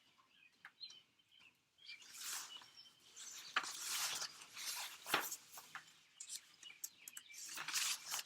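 Paper rustling from the pages of a picture book being handled and turned, in several short bursts with a few crisp clicks, while birds chirp in the background.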